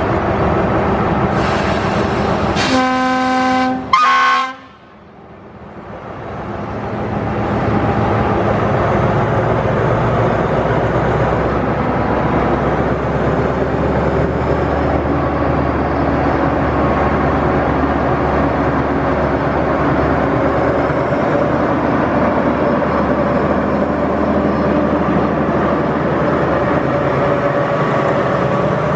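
Diesel locomotive 4113 sounds one horn blast of about a second and a half, a few seconds in. After a brief dip, its steady engine and train running noise continue.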